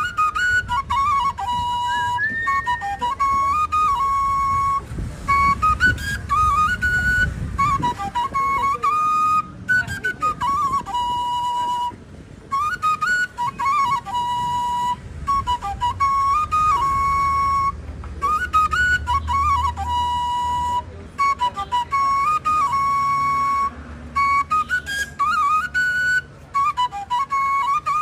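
Solo flute melody in one line, with held notes broken by quick ornamented runs and trills, the same short phrases coming back every few seconds.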